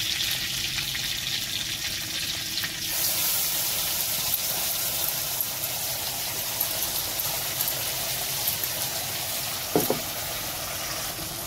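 Hot oil sizzling in a kadai as bay leaves and panch phoron fry and ground onion-spice masala paste is scraped in from a steel bowl. The sizzle turns louder and hissier about three seconds in, and there is a short knock of a utensil near the end.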